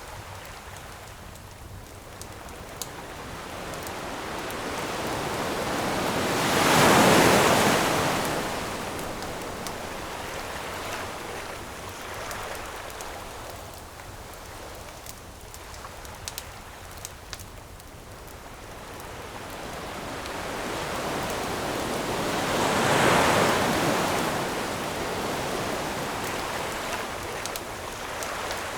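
Ocean surf washing on a shore, two waves swelling and breaking about sixteen seconds apart, with scattered small pops of a crackling wood campfire.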